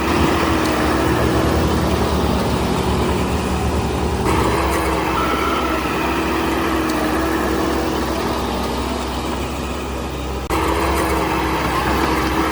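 Diesel engine of heavy construction machinery running steadily, with abrupt jumps in the sound about four seconds in and again near the end.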